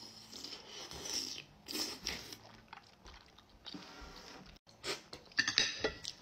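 Close-up mouth sounds of a soup dumpling being bitten and chewed: soft wet chewing, with a run of sharper smacks about five seconds in.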